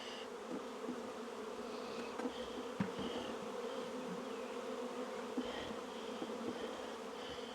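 Honey bees buzzing around an open hive, a steady hum, with a faint knock about three seconds in.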